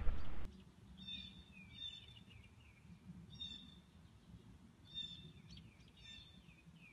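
Small birds calling faintly, a short chirping phrase with downward-sliding notes about every second or two, over a low steady background rumble. A louder burst of noise cuts off suddenly about half a second in.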